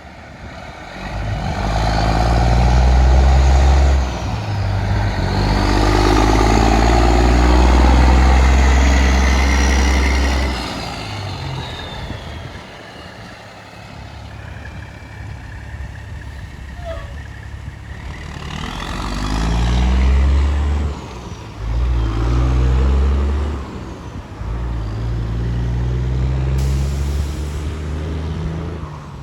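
Diesel trucks driving past one after another, their engines loud as each goes by and fading between passes, with tyre noise.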